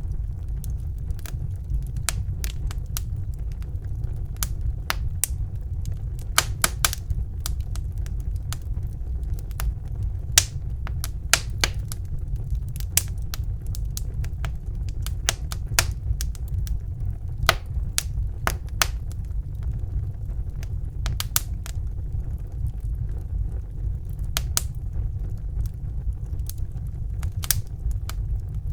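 Fire burning in a fireplace, crackling: a steady low rumble with irregular sharp crackles and pops throughout.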